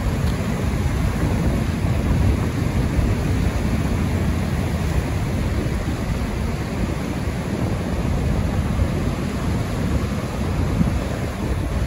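Steady wind and rain, with a low rumble of wind buffeting the microphone.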